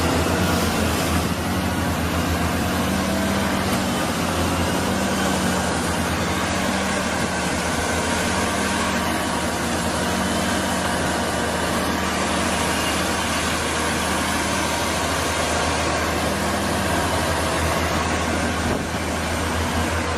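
A heavy vehicle's engine running steadily with a continuous low hum.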